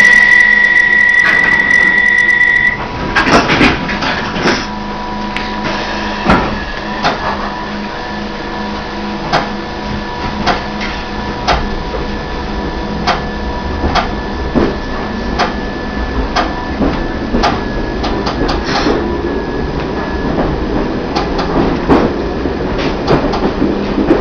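London Underground A Stock electric train pulling away from a station: a steady high beep for about the first three seconds, a few clunks, then the train running with a steady hum under irregular clicks and knocks from the wheels.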